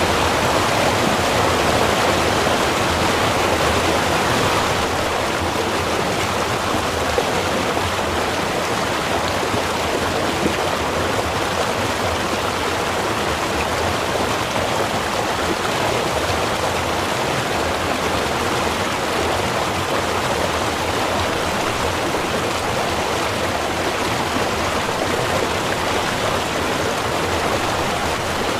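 Small river running: a steady rush of flowing water, a little softer after about four seconds.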